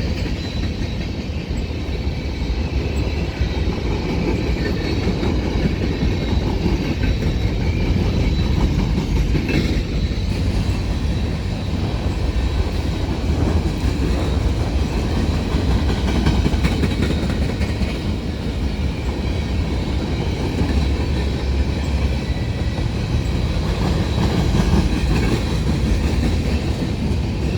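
Long freight train's cars rolling past at steady speed: a continuous heavy rumble with steel wheels clattering on the rails.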